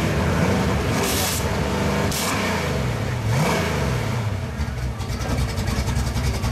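Drag-race Ford Mustang's engine being revved in short blips, its pitch dropping and rising again several times, with two brief bursts of hiss about one and two seconds in, then settling back to a fast, even idle.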